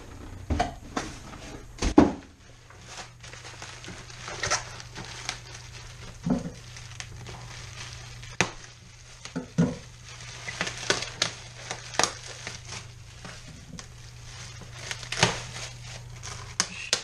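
Plastic packaging and bubble wrap being handled, crinkling and rustling, with scattered clicks and small knocks; the sharpest knock comes about two seconds in. A steady low hum runs underneath.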